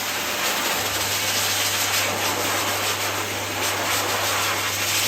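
Dog grooming blow dryer running steadily, a constant rushing of air over a low motor hum.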